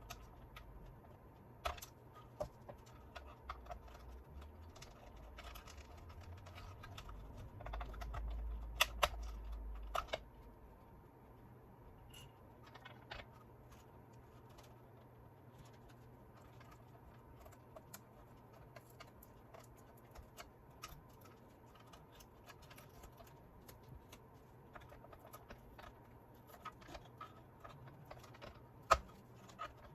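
Scattered light clicks and taps of small parts and tools being handled while a gyro stage mechanism is taken apart, with a brief low rumble and two sharper knocks about eight to nine seconds in and one sharp click near the end.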